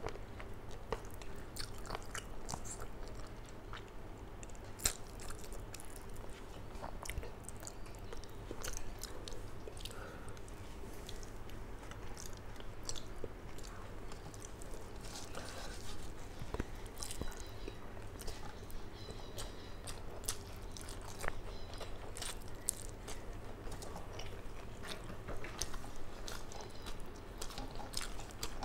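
Close-miked chewing and wet mouth clicks of a person eating a mouthful of rice and fish, over a low steady hum.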